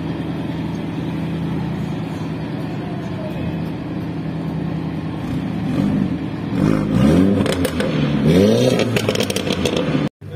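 Volkswagen Scirocco's four-cylinder engine running at low revs as the car rolls slowly, then blipped several times in quick succession over the second half, the pitch rising and falling with each rev. The sound cuts out abruptly just before the end.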